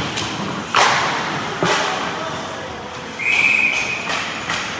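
Sharp knocks echoing in an ice hockey rink, twice in the first two seconds. Then a referee's whistle is blown as one steady blast of about a second.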